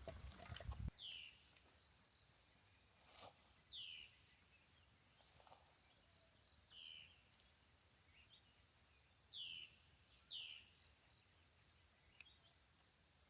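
Faint forest ambience: a bird repeats a short, falling chirp every second or few seconds, over a thin, steady high-pitched buzz that stops about two-thirds of the way through. Low rustling fills the first second.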